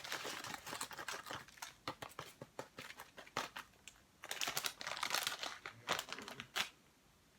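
Plastic-foil chip bag crinkling and crackling in bursts as it is handled and opened, dying away near the end.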